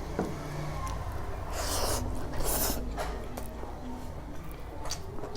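A person eating close to the microphone, with two short, noisy sniffs through the nose about two seconds in.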